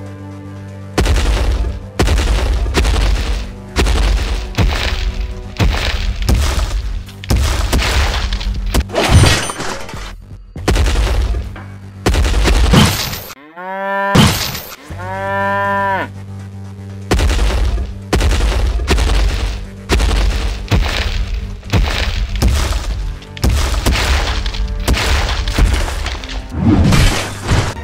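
Cartoon sound effects: a long run of heavy impacts, about one a second, over a low music drone, with a cow mooing twice about halfway through.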